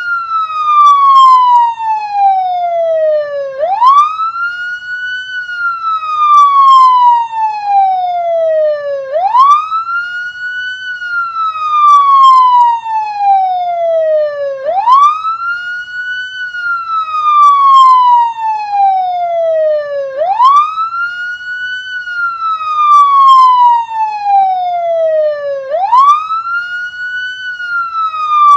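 Siren sounding a slow wail: each cycle sweeps quickly up in pitch, then glides slowly down over about four seconds before jumping up again, repeating about five times.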